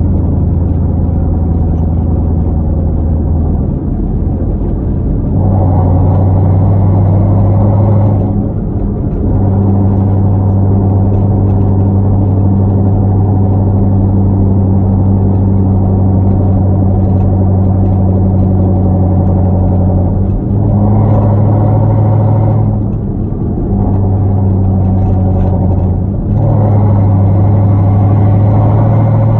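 Hyundai Genesis 5.0 V8 running through Flowmaster Super 10 mufflers and 2.5-inch straight pipes with no catalytic converters, droning steadily as the car drives. The exhaust swells louder under throttle three times: about five seconds in, around twenty seconds and near the end.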